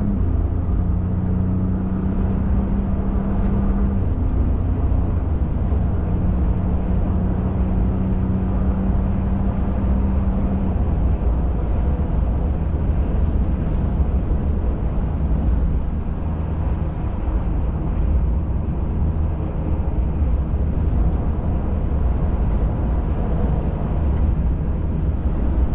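Pickup truck driving, heard from inside the cab: a steady engine drone over low road rumble. A hum in the engine note drops away about ten seconds in.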